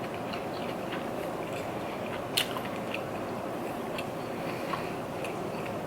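Close-up mouth sounds of eating: chewing and biting with small wet clicks, one sharper click about two and a half seconds in, over a steady background hum.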